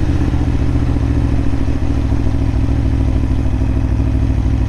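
Aprilia Tuono motorcycle engine running at a steady, even pitch while the bike is ridden along, heard from on board.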